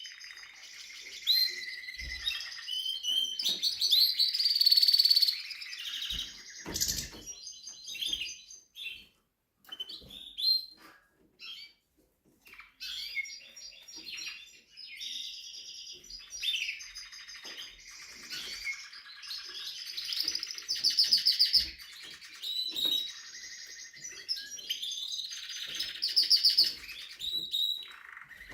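Timbrado canary singing: long runs of fast rolling trills and chirps, broken by a pause of a few seconds about a third of the way in. A few soft knocks sound early on.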